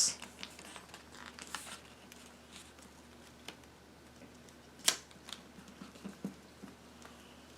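Sheet of paper being folded in half and creased by hand: faint rustling with scattered light ticks and one sharper click past the middle.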